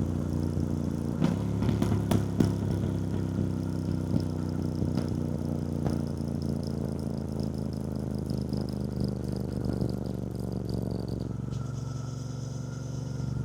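2024 Triumph Bonneville T120's 1200 cc parallel-twin engine running at a steady cruise, with a few sharp clicks and knocks about one to two and a half seconds in.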